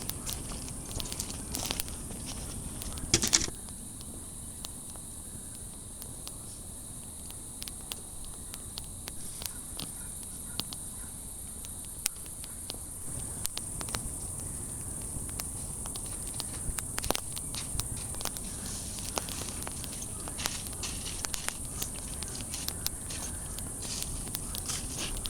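Outdoor ambience: scattered sharp crackles and clicks over a steady high hiss, with a louder clatter about three seconds in.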